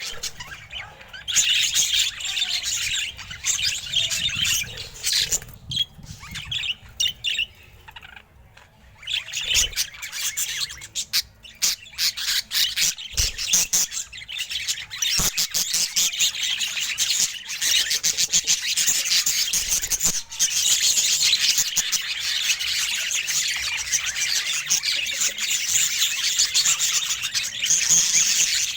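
Budgerigar chattering and warbling in fast, busy chirps and squawks, with a short lull about eight seconds in and a few soft low knocks.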